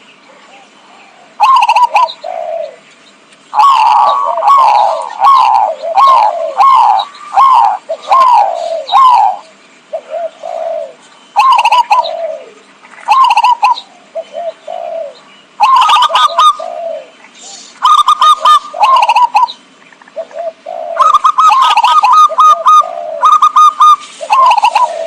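Zebra dove (perkutut) cooing as a lure call: loud, repeated phrases of quick, rippling coos, each phrase a second or two long with short pauses between.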